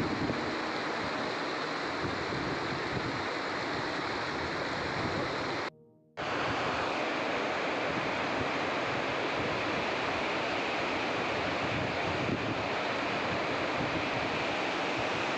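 Steady rush of the Thuli Bheri River's flowing water, cutting out for about half a second around six seconds in before resuming.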